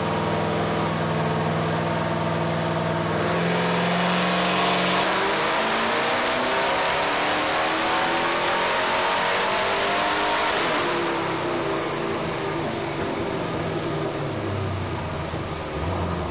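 Twin-turbo 6.6-litre LS2 V8 in a Nissan Skyline R34 making a full-throttle pull on a chassis dyno. It holds steady for a few seconds, then climbs steadily and loudly through the revs for about seven seconds, then backs off and winds down with falling pitch.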